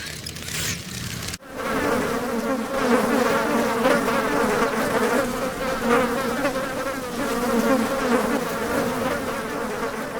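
A loud, steady buzzing with a slightly wavering pitch. It starts abruptly about a second and a half in.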